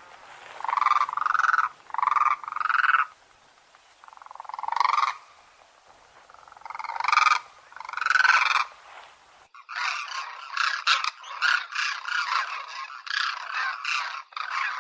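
Common cranes calling: loud trumpeting calls in twos and threes with short gaps, then about ten seconds in a denser run of many overlapping calls.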